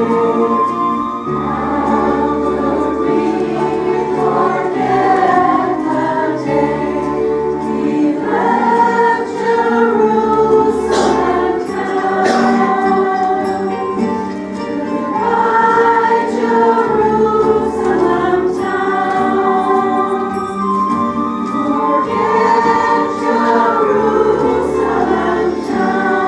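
Choir singing a gospel-style song from the musical over instrumental accompaniment with a bass line, with a couple of sharp percussion hits near the middle.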